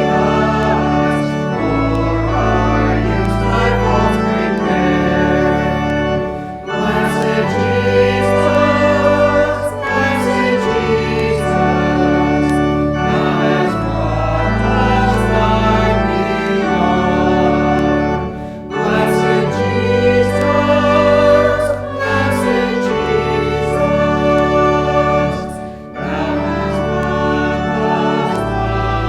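Organ playing sustained chords under voices singing a hymn-like melody. There are three short breaks between phrases.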